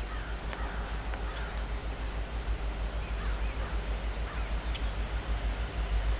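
A bird calling in short arching calls, a run of three about half a second apart and then another few a couple of seconds later, over a steady low rumble.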